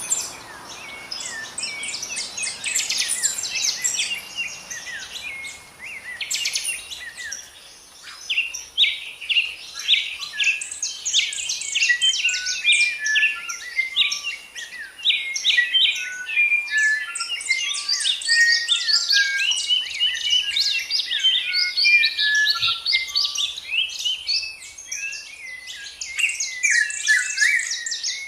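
Several birds singing and calling at once: a dense chorus of quick chirps and trills, with a run of short, clear whistled notes underneath through the middle.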